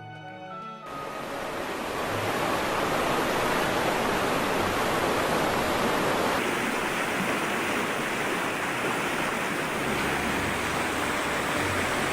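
Loud, steady rush of water. It swells up over the first two seconds as a fading music track cuts away.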